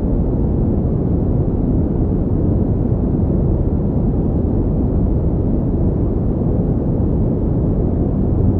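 Steady synthetic pink noise: an even, deep hiss with most of its energy in the low end, unchanging throughout.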